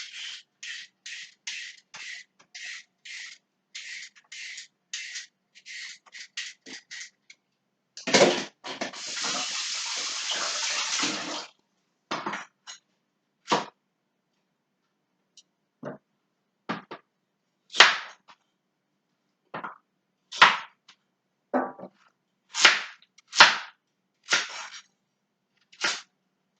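Kitchen vegetable preparation for carrot and zucchini. First come quick, even scraping strokes, about two to three a second, then a few seconds of running tap water about eight seconds in, then a dozen scattered sharp knocks of a knife cutting on a chopping board.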